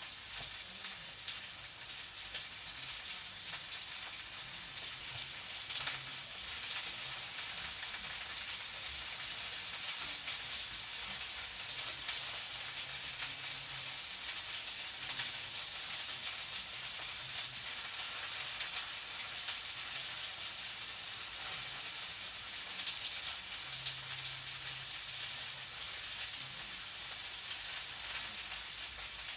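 Food frying in a pan: a steady sizzle with dense fine crackling.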